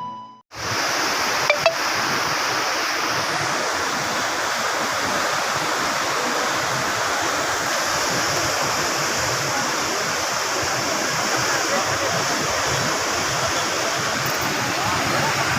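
Steady rush of water, with two short clicks about one and a half seconds in.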